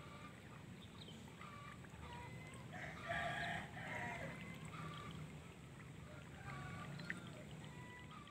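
Steady outdoor background noise with one louder bird call about three seconds in, lasting about a second, and a few short, fainter calls scattered around it.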